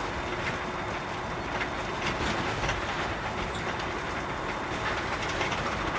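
Container truck on the move: steady road and engine noise with many faint rattles.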